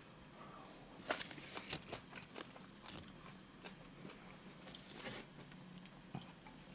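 A person chewing a mouthful of instant ramen noodles, with short sharp mouth clicks and smacks that cluster about a second in and again near five seconds.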